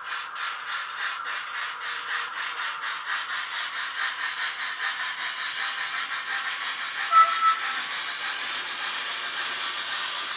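H0-scale model train running: a rapid regular beat that quickens until it blurs into a steady rush, with a brief sharp high tone about seven seconds in.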